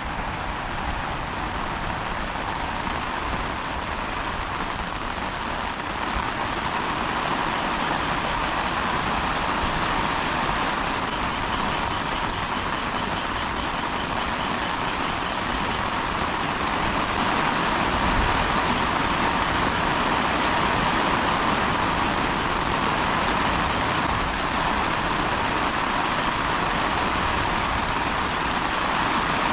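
Heavy rain pouring down in a steady, dense hiss that swells a little louder about six seconds in.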